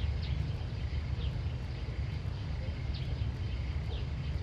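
Outdoor ambience: a steady low rumble under short, high chirps that recur about once a second, typical of small birds calling.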